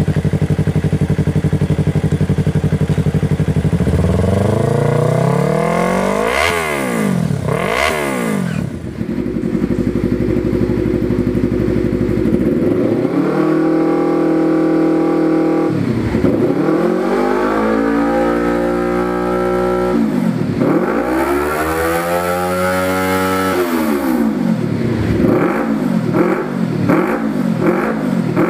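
Yamaha R3 parallel-twin engine through an aftermarket exhaust, idling steadily, then revved over and over. First come two quick blips, then a steadier stretch, then several longer revs held up and let fall. Near the end there is a run of fast, short blips.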